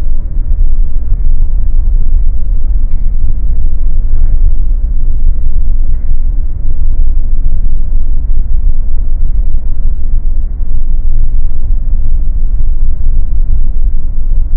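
Steady low rumble of an N700S Shinkansen running along the line, heard inside the passenger cabin.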